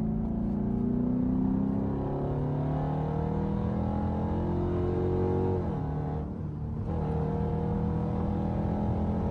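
Straight-piped Dodge Durango exhaust under acceleration: the engine note climbs steadily for about five seconds, drops at a shift or lift-off, then holds a steady drone.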